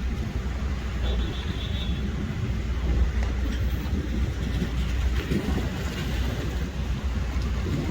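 Steady low rumble of heavy vehicle noise, with a noisy hiss over it and a few faint ticks.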